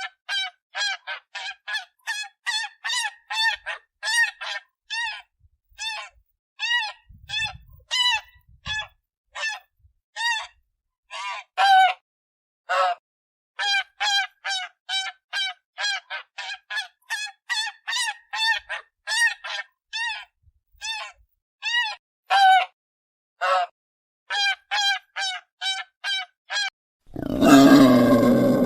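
Domestic geese honking: a long series of short, nasal calls, often several a second with brief pauses. Near the end a louder, rougher animal sound cuts in and takes over.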